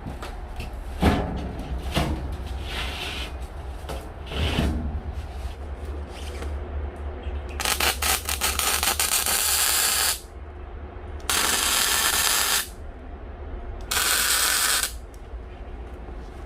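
Three short bursts of harsh hissing metalworking noise on the steel stove body, each starting and stopping abruptly, after a few knocks on the metal.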